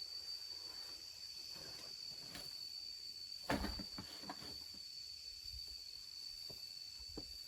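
A steady, high-pitched trill of insects, with a few soft knocks and one louder thump about halfway through.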